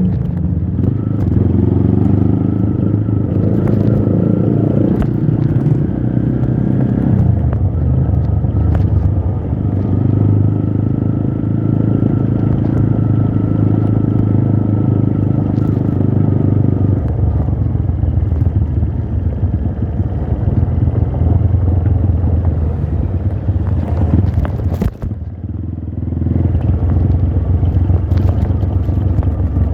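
Trail motorcycle engine running while being ridden, its note stepping up and down several times with throttle and gears, and a brief drop in level near the end.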